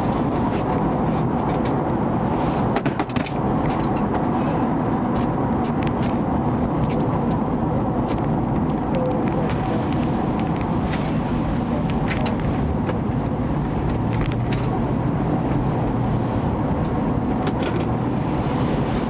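Steady road and engine noise heard inside a moving police squad car, with scattered small clicks and rattles.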